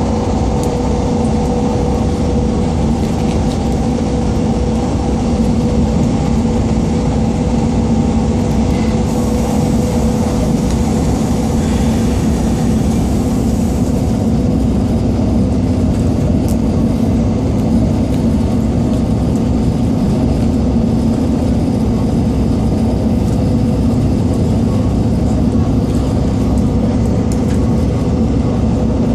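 Class 158 diesel multiple unit running at speed, heard from inside the carriage: a steady rumble of the underfloor diesel engine and wheels on rail with a low hum. Fainter higher tones fade out about halfway through, and a brief rise in hiss comes around ten seconds in.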